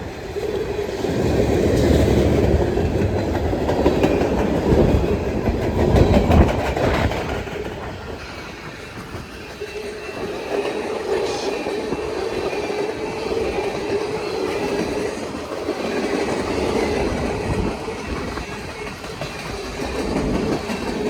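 Union Pacific manifest freight train cars rolling past, their wheels clacking over the rail joints, with a steady hum, and wind buffeting the microphone. It is loudest for the first several seconds, then eases a little.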